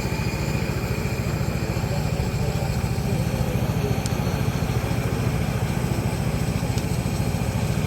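Small engine running steadily at one even speed, a fast regular chugging that does not change.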